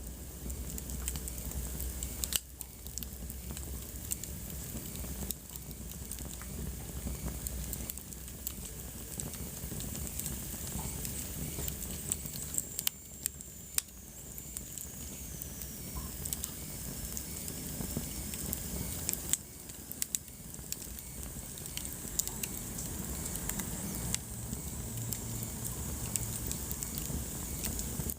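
Wood fire in a fireplace crackling, with a steady hiss and frequent sharp pops, a few of them louder. About halfway through, a thin high whistle glides slowly down in pitch and fades.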